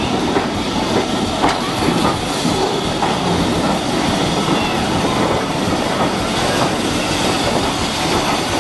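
A train made of a wooden goods brake van and green passenger coaches rolls past close by, pushed by a tank engine at the rear. Its wheels click over the rail joints above a steady rumble.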